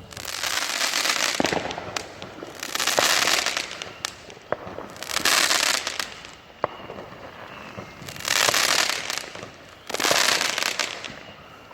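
Fireworks going off: five loud bursts of crackling hiss, each about a second long and coming every two to three seconds, with sharp single cracks in between.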